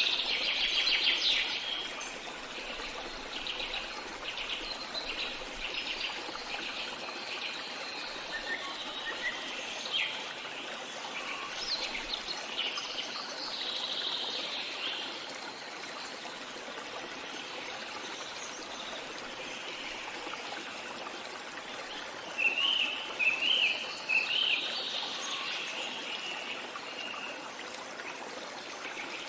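Running stream or trickling water with birds singing over it: a fast trill in the first seconds, scattered chirps, and a short burst of loud calls about three-quarters of the way through.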